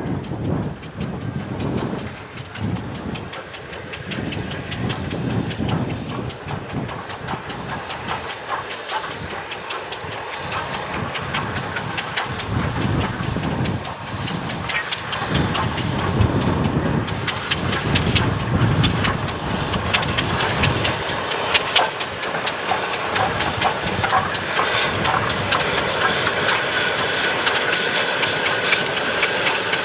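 Steam locomotive working a train: exhaust beats and steam hiss, with wheel-on-rail clatter building and growing louder in the second half as the train comes nearer.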